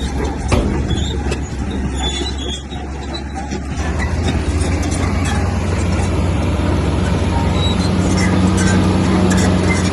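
Komatsu bulldozer's diesel engine running under load, growing louder about four seconds in and then holding steady, with a sharp metallic knock about half a second in.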